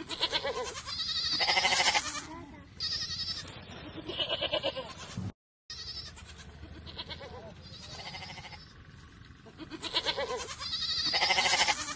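Bleating of sheep or goats: a run of wavering, quavering bleats. There is a short break of silence about five and a half seconds in, after which a similar run of bleats starts again.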